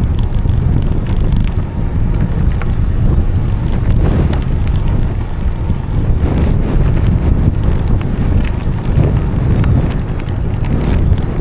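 Loud wind buffeting the microphone of a camera riding on a moving bicycle, a steady low rumble with scattered small clicks and rattles.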